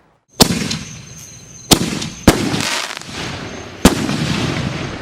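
Excalibur canister (mortar) shells bursting in the air: four sharp bangs, the first just after the start, two close together around two seconds in and one near four seconds, with crackling and rumble in between.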